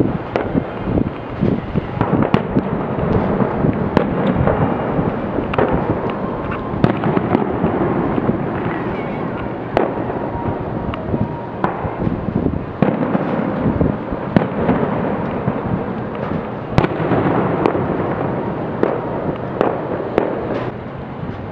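Fireworks display: a dense, continuous run of bangs and crackling, with sharper reports standing out every second or so.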